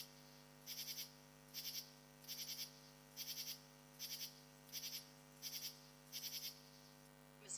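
Insect chirping in short, high-pitched buzzy pulses, each a quick run of three or four clicks, repeating about once every 0.8 s over a steady low hum. A falling sweep cuts in at the very end.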